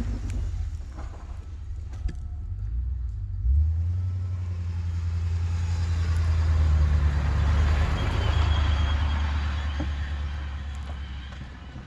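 Ford F-350 pickup truck's engine running, with a sudden jump in loudness about three and a half seconds in, then fading away near the end.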